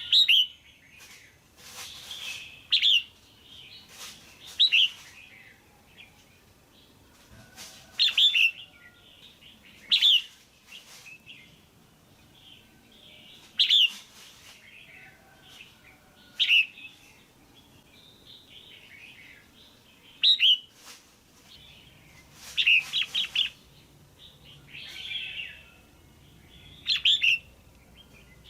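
Female red-whiskered bulbul calling: short, sharp chirps, about a dozen of them a second or few apart, a few coming in quick runs near the end.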